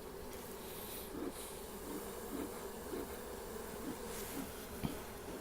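Honey bees buzzing in flight around an opened hive: a steady hum whose pitch wavers as individual bees pass. A short click sounds near the end.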